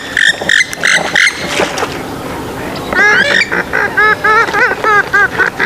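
Swamphen and moorhen calls played for attracting birds: a fast run of harsh, loud notes for the first second or so, a short lull, then a series of short arched nasal calls, about three a second.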